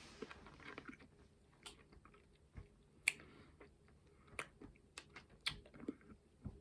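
Faint mouth sounds of a person sucking and chewing a Warheads Extreme Sour hard candy: scattered small clicks and wet smacks.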